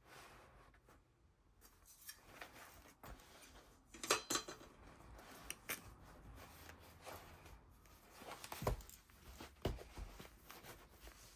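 A handmade paper-and-fabric junk journal being handled: paper rustling, with several sharp knocks, the loudest about four seconds in and around nine seconds in.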